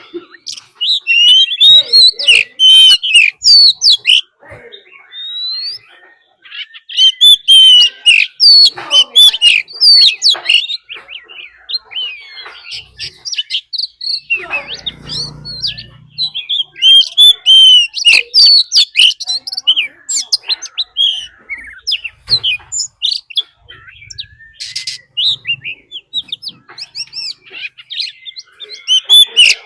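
Oriental magpie-robin singing in a competitive, territorial way: rapid, varied whistled phrases in bouts of a few seconds separated by short pauses.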